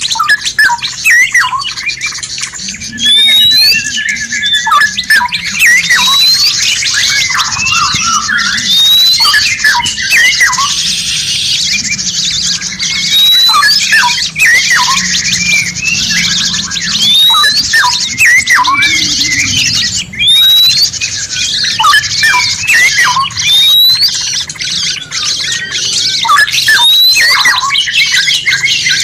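Dense mixed chorus of several songbirds calling and singing at once, the kind of bird-song tutoring recording used to train caged songbirds. A short rising whistle recurs about every two seconds over many quick chirps and trills, with a steady high hiss behind.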